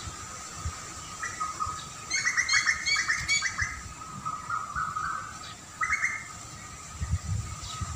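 Small birds chirping: a quick run of chirps about two seconds in and a shorter call near six seconds, over steady high thin tones. There are low thumps near the end.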